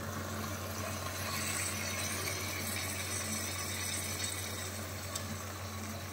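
Turkey pieces frying in masala in an open pressure cooker: a steady soft sizzle over a constant low hum.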